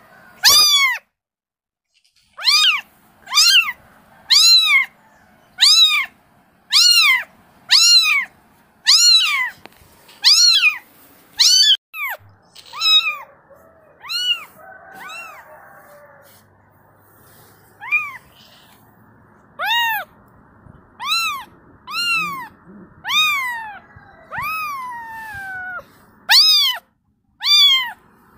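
Kitten meowing over and over, about twenty short high-pitched meows roughly one a second, with a pause of a few seconds about halfway and one longer, falling meow near the end: a kitten calling for its mother.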